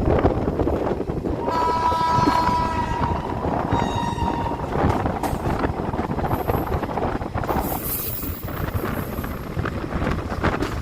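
Indian Railways train running over track points, its wheels clattering over the rail joints above a continuous rumble. A train horn sounds about a second and a half in and holds for about a second and a half, followed by a fainter, shorter horn tone around four seconds in.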